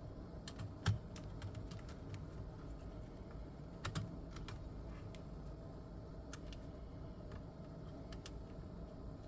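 Scattered light clicks and taps from hands working inside a vintage Fisher amplifier's lamp housing, with a sharper click about a second in and another about four seconds in.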